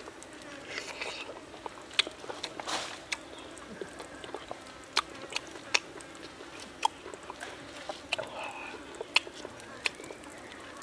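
Close-up eating sounds of a man biting and chewing fried pork rib: irregular sharp mouth clicks and smacks.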